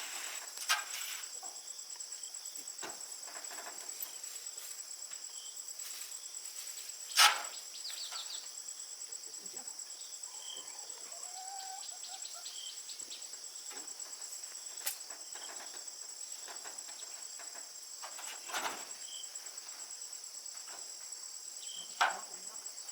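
Continuous high-pitched insect chirring, a fast pulsing trill, with a few sharp knocks or taps scattered through. The loudest knock comes about seven seconds in.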